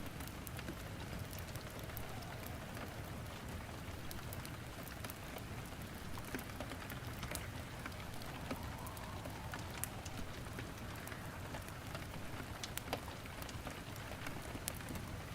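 Steady rain with the scattered sharp pops and crackles of wood burning in a fireplace.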